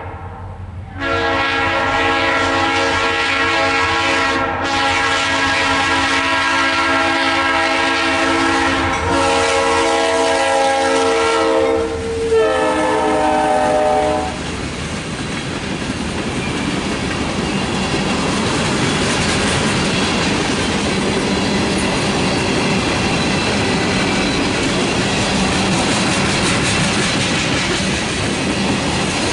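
Freight locomotive horn sounding in long blasts for about thirteen seconds, with short breaks, and dropping in pitch about twelve seconds in as the lead unit, an EMD GP40-2, passes. After that come the steady rolling rumble and wheel clatter of loaded ethanol tank cars going by.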